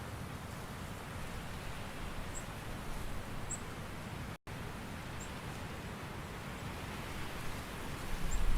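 Steady hiss of rain over a low rumble, with a few faint high chirps. The sound cuts out for an instant about halfway through, and a low rumble of thunder begins to swell near the end.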